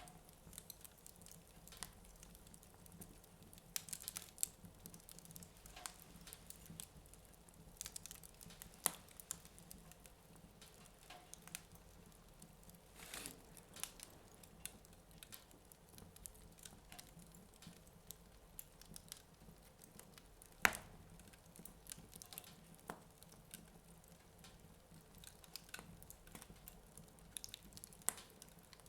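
Wood fire in a fireplace crackling faintly, with scattered irregular pops and snaps, one louder snap about two-thirds of the way through.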